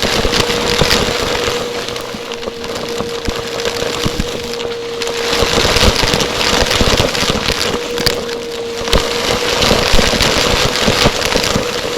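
Vacuum cleaner running close to the microphone, its motor giving a steady whine over a dense crackling and clicking rush of air.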